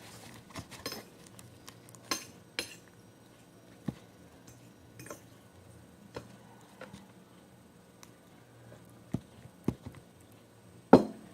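Scattered clinks and knocks of a spoon against a bowl while slime is being mixed, about ten separate strikes, the loudest near the end.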